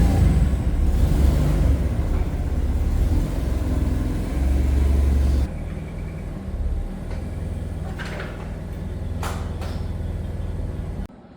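A large engine running with a steady low rumble. It drops in level about five and a half seconds in, gives two short hisses near the end, then cuts off abruptly.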